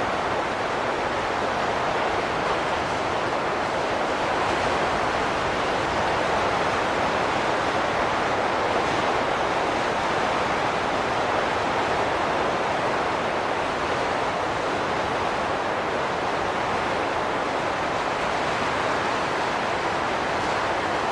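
Wind blowing steadily: a dense, even rush that swells and eases only slightly, with no whistling tones.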